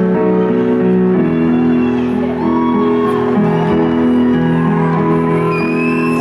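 Live concert music: held chords that change every second or so, with fans whooping and whistling over them.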